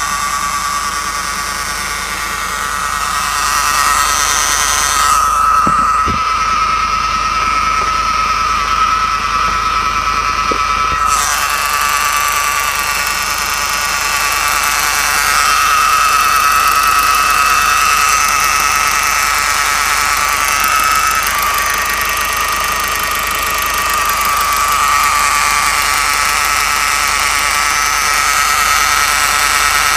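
Citroën C5 X7 2.2 HDi diesel running with an extraneous noise: a steady high whine over the engine sound, growing stronger and weaker several times.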